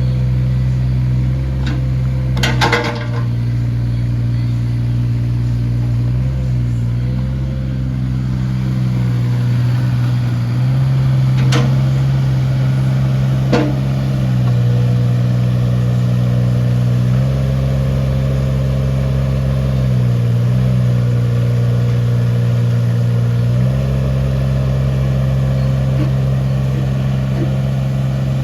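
Volvo EC18E mini excavator's diesel engine running steadily, its note shifting down and back up several times. A short clatter sounds a couple of seconds in, and two sharp knocks come about halfway through.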